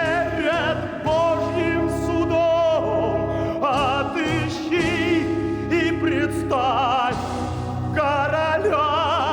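A singer in an operatic style holds long notes with strong vibrato, phrase after phrase, over a steady instrumental accompaniment.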